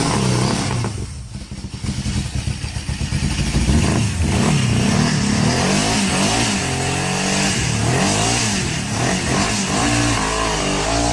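Truck engine revving, its pitch rising and falling again and again.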